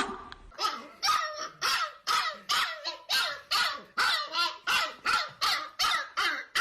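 Dog barking over and over at an even pace, about two barks a second, starting about half a second in.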